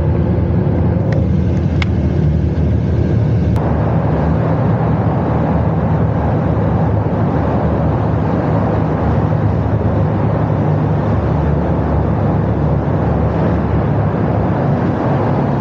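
Honda Gold Wing motorcycle engine running steadily at cruising speed, with road and wind noise, while riding through a road tunnel.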